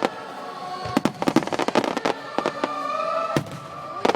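Aerial fireworks bursting in rapid volleys of sharp bangs, a dense run about a second in and another near the end.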